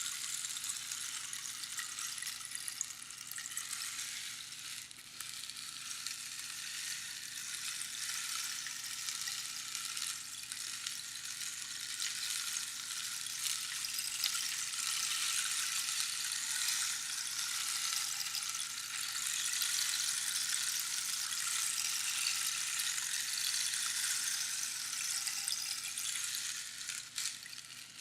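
Rainstick: pebbles trickling down past the pins inside the hollow tube in a continuous fine hiss like falling rain, swelling and easing gently with a brief lull near the end.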